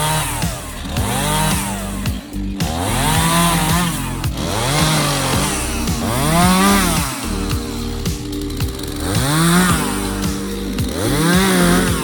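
Chainsaw bucking a felled hickory trunk into firewood lengths, its engine revving up and dropping back again and again, about seven times. Background music plays underneath.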